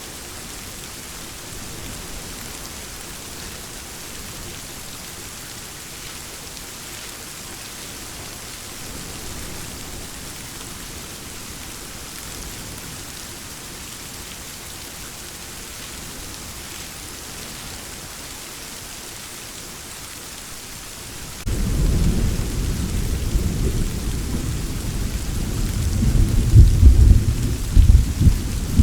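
Steady rain falling, then about three quarters of the way through a clap of thunder breaks in suddenly. It rolls on as a deep rumble, growing louder with several strong peaks near the end.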